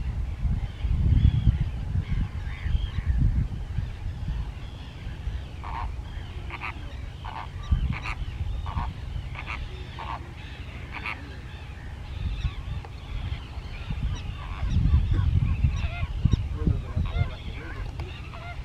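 Birds calling: a run of about eight short, even calls, a little under a second apart, through the middle, over fainter scattered chirping. A low rumble swells near the start and again near the end, and it is the loudest sound.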